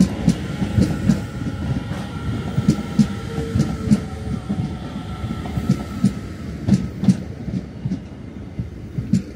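Iarnród Éireann DART electric train running along the platform, its wheels clacking over the rail joints two or three times a second above a rumble, with a steady high whine; the sound eases off near the end as the last carriage goes by.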